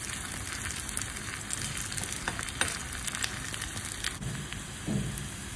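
Garlic, green chilies and dry red chilies sizzling in hot oil in a small kadai as they are stirred with a metal spoon, with a few sharp clicks near the middle.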